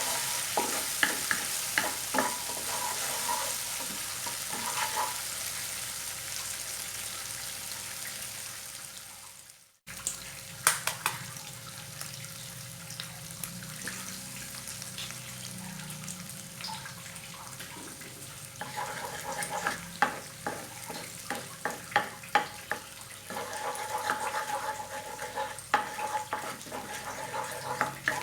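Food sizzling as it fries in a pan, with a spatula clicking and scraping against the pan as it is stirred. The sizzle fades out about ten seconds in, then the stirring clicks start again over a fainter sizzle and grow busier and louder in the last third.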